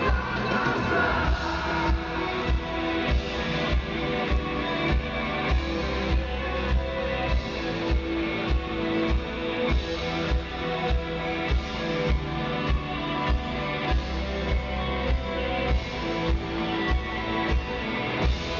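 Rock band playing an instrumental passage, with guitar over a steady, regular beat.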